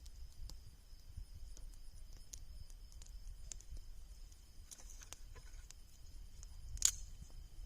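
Bonfire crackling faintly with scattered small pops, and one loud sharp crack about seven seconds in.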